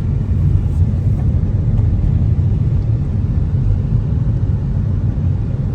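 Steady low rumble of a car driving along a road: engine and tyre noise with no sharp events.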